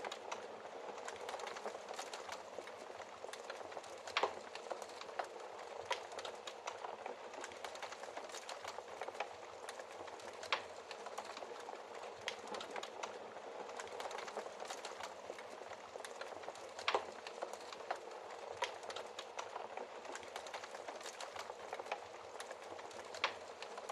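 Wood fire crackling in a fireplace: a steady soft hiss with frequent small pops and a handful of louder snaps.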